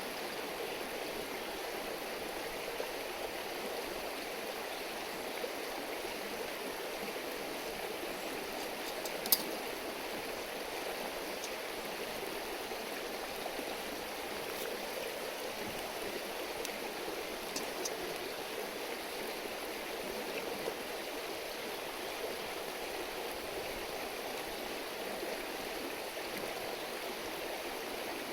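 A river stream babbling steadily, a continuous rushing of water. A few sharp clicks stand out, the loudest about a third of the way in.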